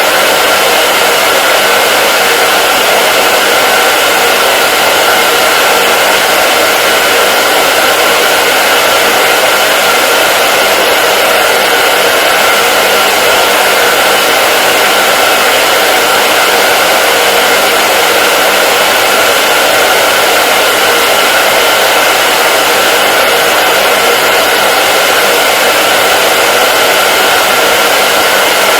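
Hair dryer running continuously: a loud, steady rush of air with a faint motor hum and no change in speed.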